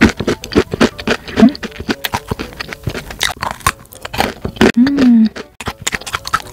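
Crunchy chewing of a pistachio-coated oranda, a crisp fried-dough snack. Many sharp crunches come close to the microphone, with a short hummed "mm" about five seconds in.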